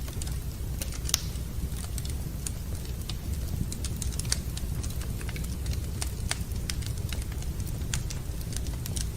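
Wood fire burning in a fireplace, crackling with frequent irregular sharp snaps over a steady low rumble.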